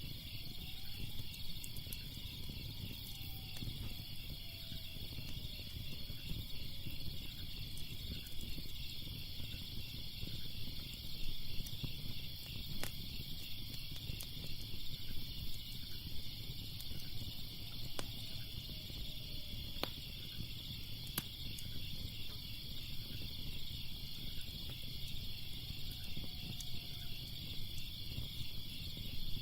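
Steady chirping of crickets over the low, even noise of a wood fire, with a few sharp crackles from the fire scattered through.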